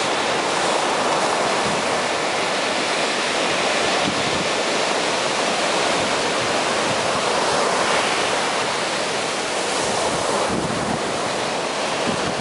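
Black Sea surf washing steadily onto a beach, a continuous rush of breaking waves.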